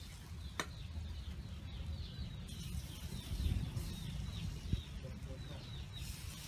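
Small birds chirping over and over, with a low rumble underneath. A single sharp click of metal tongs on the grill rack comes about half a second in.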